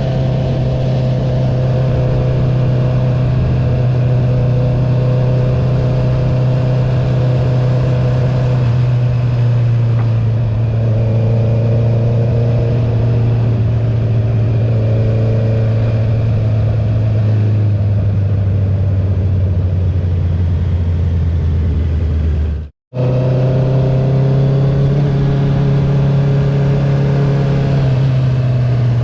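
A 2021 Honda CB650R's inline-four running through an Akrapovic titanium full-system exhaust with the dB killer removed, heard from on the bike while riding. The engine note falls slowly for most of the time, breaks off for a moment about three-quarters through, and comes back at a higher pitch before easing down again near the end.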